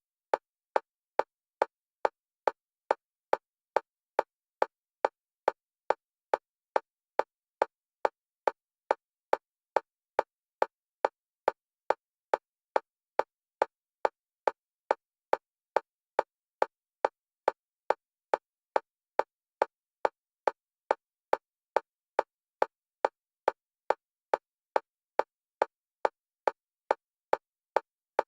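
Synthetic metronome clicks for EMDR bilateral stimulation, alternating between the left and right stereo channels. They come evenly at about two a second, each a short, sharp tick with silence between.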